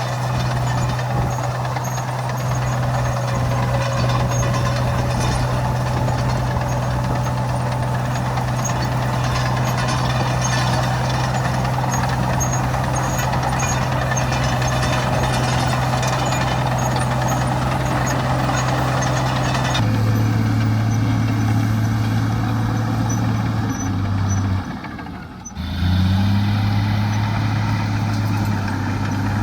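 Heavy diesel engine of earthmoving machinery running steadily. About twenty seconds in the engine note changes abruptly; near twenty-five seconds it briefly drops away, then comes back with a rising pitch.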